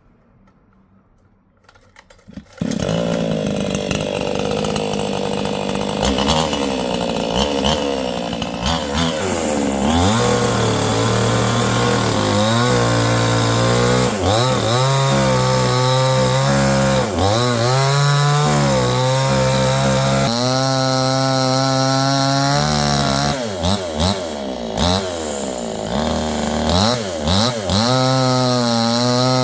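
A chainsaw that starts up about two and a half seconds in and then runs loudly, its engine pitch repeatedly dropping and climbing again.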